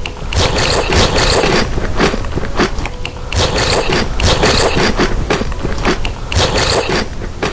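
Close-miked chewing and crunching of desserts: crisp crackles and clicks from the mouth in repeated bursts.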